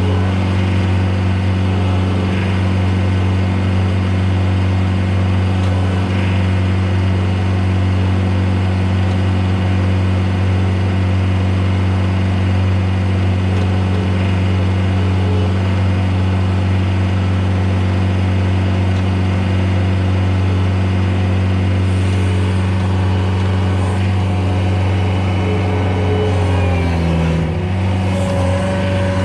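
Engine running at a steady speed, with a brief dip in pitch near the end.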